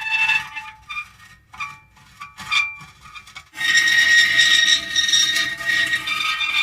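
Metal creaking: a drawn-out pitched creak breaks off just after the start, a few short creaks follow in a quieter stretch, then a long, loud creak sets in about three and a half seconds in.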